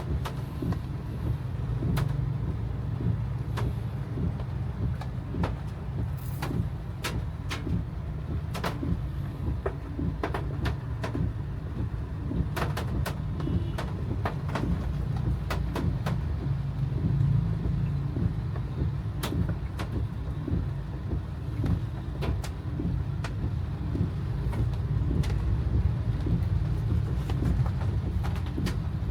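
A car's steady low engine and road rumble heard inside the cabin, with irregular sharp ticks of heavy rain hitting the windshield and roof.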